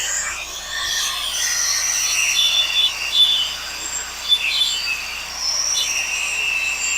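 Crickets and other insects chirring steadily in several overlapping high-pitched bands, with a few brief whistled chirps over them.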